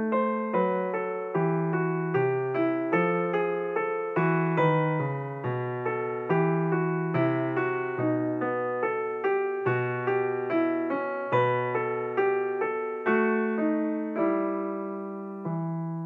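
Slow solo piano music, gently struck notes and chords about two a second, ending on a held chord that rings on.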